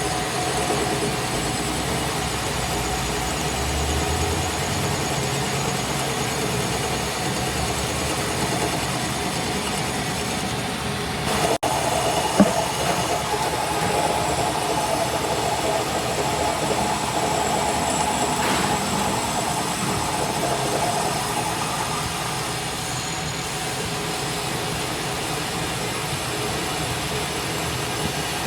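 Steady running noise of a workshop machine, with a brief break and a single sharp knock about twelve seconds in.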